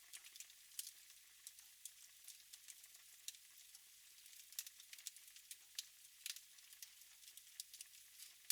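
Wood fire burning in a fireplace, crackling with irregular sharp pops and snaps, several a second, over a faint hiss.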